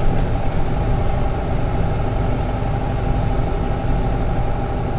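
Steady engine and road noise from inside a moving car.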